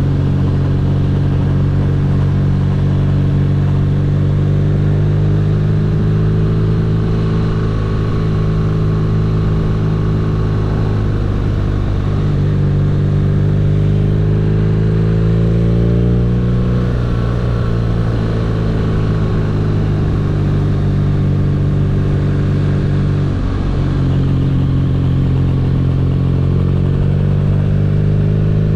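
BMW R nineT boxer-twin engine running steadily on the road. Its pitch drops slightly about eleven seconds in, rises again around sixteen seconds, and dips briefly near the end as throttle and gear change.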